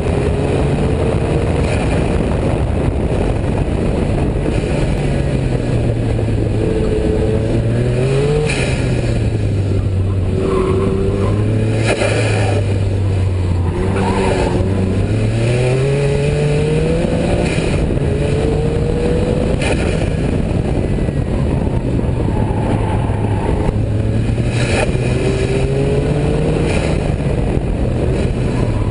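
Noble sports car's twin-turbo V6 engine driven hard round a track, its revs repeatedly climbing and falling back, with wind and road noise, heard from inside the cabin.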